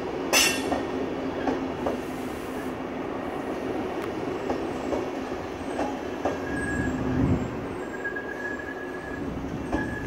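SBB passenger coaches rolling past at low speed, wheels clicking irregularly over rail joints and points. A sharp metallic screech comes about half a second in, and a thin high wheel squeal sounds on and off near the end.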